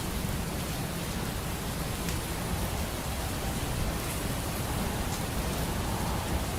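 Steady rain, with a low rumble underneath and a few faint pops.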